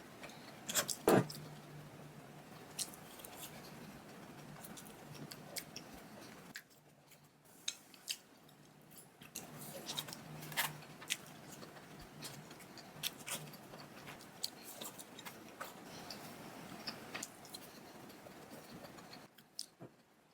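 Close-up eating sounds: biting and chewing dense, fudgy bars with a crunchy chocolate coating, giving scattered sharp crisp clicks and crackles, the loudest about a second in, over a faint steady low hum.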